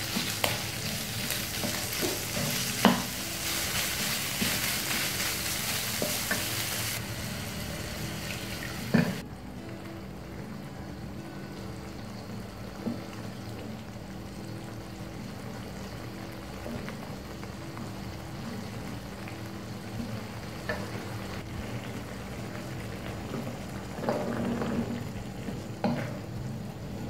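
Anchovies and egg sizzling as they are stir-fried in a nonstick wok, with a wooden spatula scraping and now and then knocking against the pan. The sizzle drops sharply about nine seconds in and stays quieter, with a louder patch near the end as pea eggplants go into the pan.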